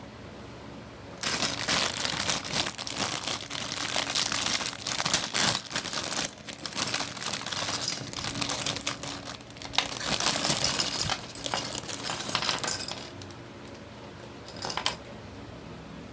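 Plastic crinkling and clicking as a toy kit's packaging and small parts are handled. It starts about a second in, runs in irregular bursts, and stops, with one brief crinkle near the end.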